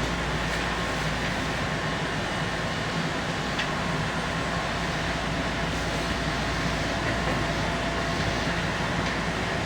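Keihan Electric Railway local train running at speed between stations: steady rolling noise of wheels on rail, with a faint steady whine running through it.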